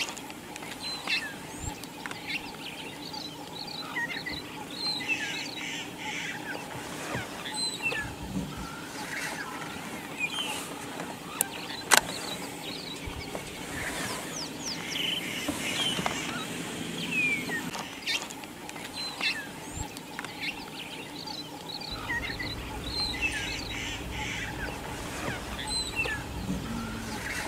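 Birds chirping and calling, many short high calls overlapping throughout, over a steady low hum. A low rumble joins in for the last few seconds.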